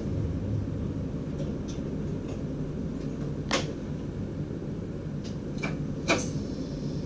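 Steady low hum inside a DDZ double-decker train's driver's cab, with a few sharp clicks and knocks. The loudest come about three and a half and six seconds in.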